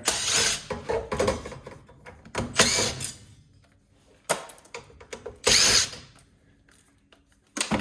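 Cordless drill-driver running in three short bursts, with small clicks and knocks between, as screws are backed out of a steel plate.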